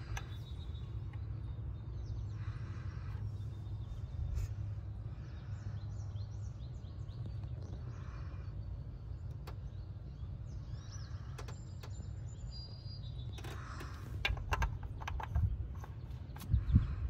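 Honda B16A DOHC VTEC four-cylinder engine idling steadily with its oil filler cap off. The plastic cap is twisted off with a few clicks at the start and screwed back on with a cluster of clicks and knocks near the end. Birds chirp faintly.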